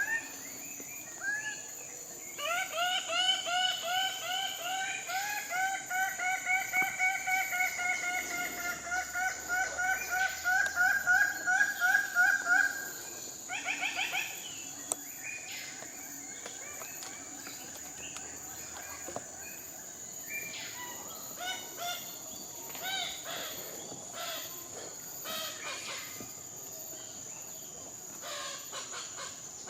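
A bird gives a long series of nasal, upward-inflected calls, about three a second for some ten seconds, then a short sharp burst of notes. Scattered softer bird calls follow, over a steady high-pitched insect drone.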